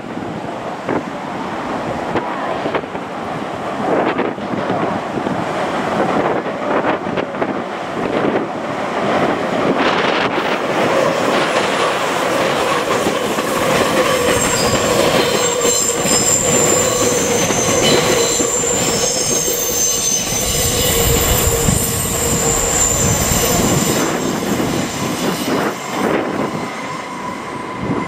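Meitetsu electric train passing close by, its wheels knocking over the rail joints. From about halfway through, high steady wheel squeal rings out as it runs through the curve.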